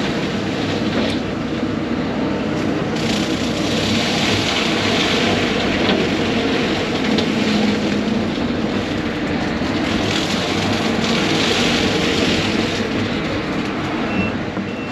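Case 140 excavator's diesel engine running under load while its hydraulic brush cutter head spins and cuts through brush. The high cutting noise swells twice, about three seconds in and again about nine seconds in.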